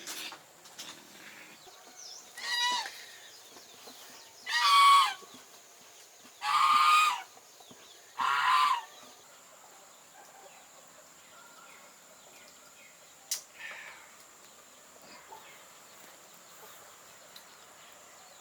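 Domestic fowl calling: four loud, short calls spaced about two seconds apart, followed later by a single sharp click.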